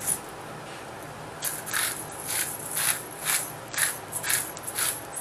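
Pepper grinder being twisted by hand over a pan of food, in short grinding strokes about twice a second that begin about a second and a half in.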